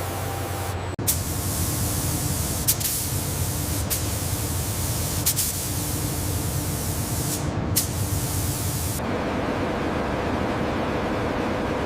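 Steady hiss, with a sharp click every second or so, that changes abruptly about nine seconds in to a duller, lower rushing noise.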